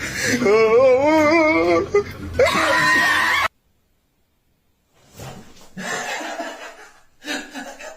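A person laughing hard in a high, wavering voice that cuts off suddenly; after a short gap, scuffling noise and faint voices.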